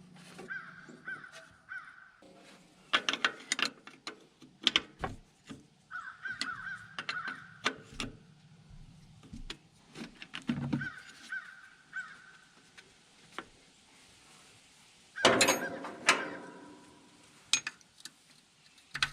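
Crows cawing in repeated runs of calls, over scattered short clinks and knocks of hand tools working on a carburetor, with one louder clatter about fifteen seconds in.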